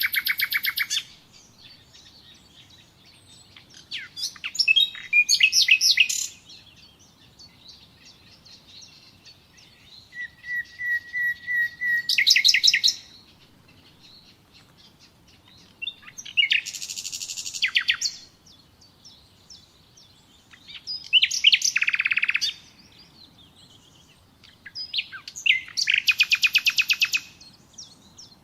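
Nightingale singing: about six short, loud phrases separated by pauses of a few seconds. One phrase is a run of repeated whistled notes that grow louder, and another, near the end, is a fast rattle of repeated notes.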